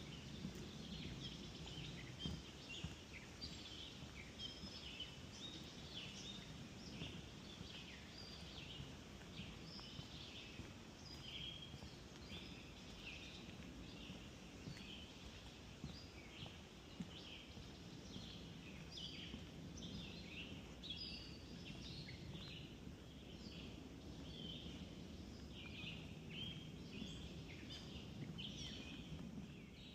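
Several birds singing and calling in a spring swamp forest, a continual scatter of short high chirps and phrases, over a low steady rumble.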